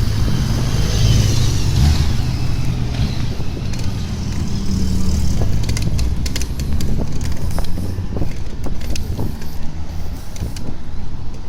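Car engine running steadily, with a few short clicks in the second half.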